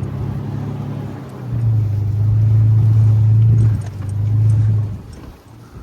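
Motor vehicle engine running at a steady pitch, easing off briefly twice and then dropping away near the end.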